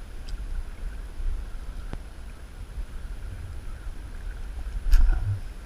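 Low wind rumble on the microphone beside a river, with a sharp click about two seconds in and a louder knock near the end.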